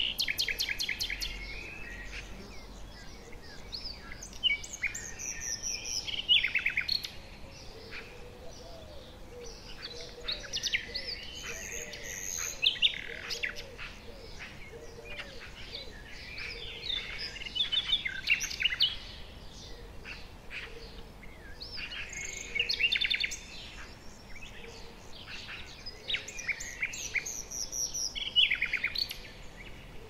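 Small birds singing and chirping, with bursts of quick, high trilled phrases every few seconds.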